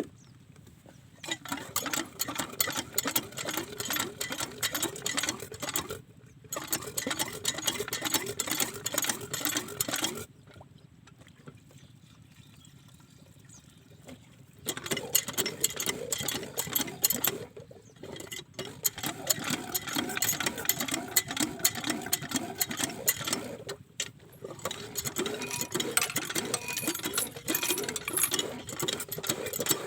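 Diesel engine running with a fast, even mechanical clatter. The clatter comes in several stretches, broken by brief cut-offs and one quieter stretch of a few seconds.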